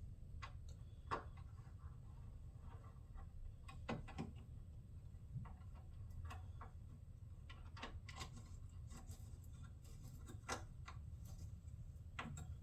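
Scattered light clicks and taps of plastic shroud pieces being handled, lined up and pressed into place, irregular and about a dozen in all, over a steady low hum.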